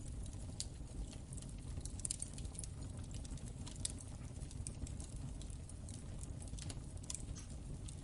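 Wood fire in a fireplace crackling: irregular sharp crackles and pops over a low, steady rumble of the flames.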